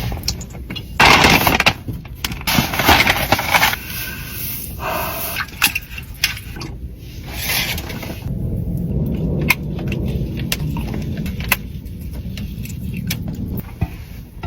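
Chocolate being snapped and crunched close to the microphone: several sharp cracking bursts in the first few seconds, then a steadier rough crunching and chewing.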